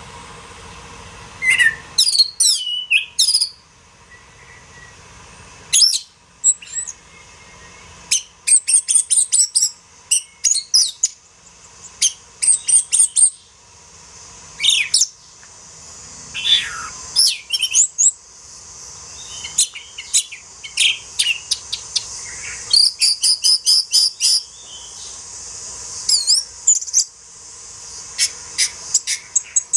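Oriental magpie-robin singing: phrases of rapid chirps, sweeping whistles and trills with short pauses between them, over a steady high hiss.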